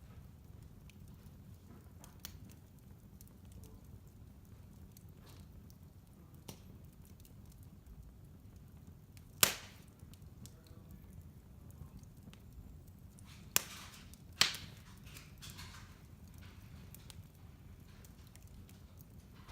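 Wood fire burning in a fireplace: a low steady rumble of flame with scattered crackles and three sharp pops from the burning logs, the loudest about halfway through and two more a few seconds later.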